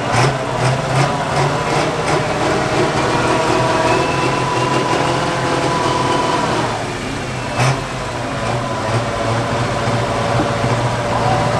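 Light pro stock pulling tractor's diesel engine running steadily, its pitch dipping briefly about seven seconds in, with a sharp knock just before eight seconds.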